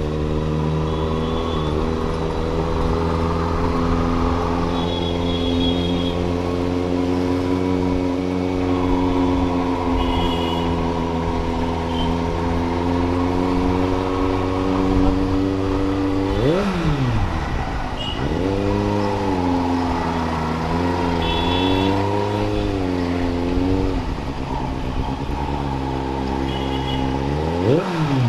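Superbike engine running while riding, its note mostly steady with small rises and falls. Twice, about halfway through and again near the end, the pitch drops sharply and climbs straight back up.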